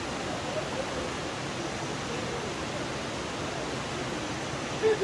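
Steady rush of falling water from a waterfall, with faint distant voices underneath and a short louder vocal sound at the very end.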